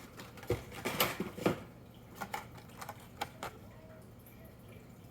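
Diecast toy cars being handled: a quick run of light clicks and knocks, loudest about a second in, dying away after about three and a half seconds.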